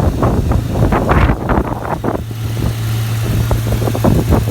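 Ford Mustang GT V8 running at idle with a steady low hum and quick uneven pulses, freshly fitted with new NGK spark plugs and firing on all cylinders.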